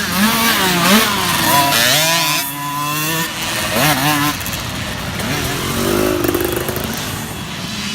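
Several small youth dirt bike engines revving, their pitch rising and falling as the riders open and close the throttle.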